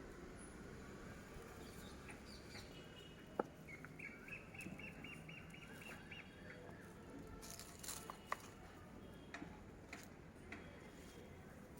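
A bird gives a quick run of about nine high chirps, about four seconds in, over faint scattered clicks and taps, one sharp click just before the chirps.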